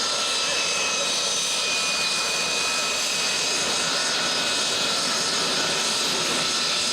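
L-39 Albatros jet engines (Ivchenko AI-25TL turbofans) running, a steady jet noise with a high turbine whine.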